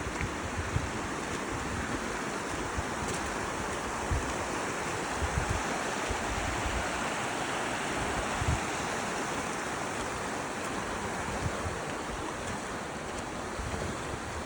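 Steady wind noise, with irregular low gusts buffeting the microphone.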